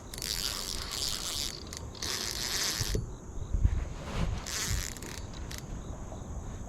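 Insects buzzing: three high-pitched buzzy bursts of about a second or so each over a steady high insect drone, with a few low knocks near the middle.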